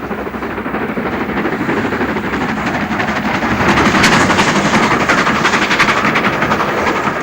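LMS Black Five 4-6-0 steam locomotive passing with its train, with rapid clattering, growing louder to its loudest about four seconds in.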